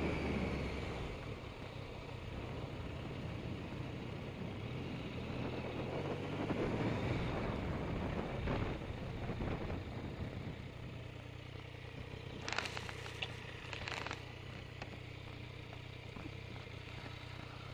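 Motorcycle engine running at low speed, then idling steadily, heard through the lowered helmet shield. Two brief scraping knocks come about two-thirds of the way through.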